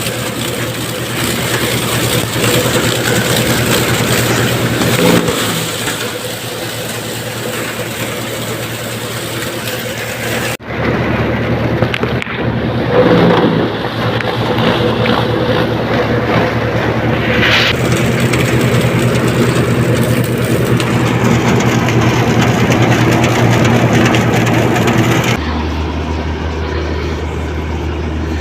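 Tractor engine running steadily. Its sound shifts abruptly twice, about ten seconds in and near the end.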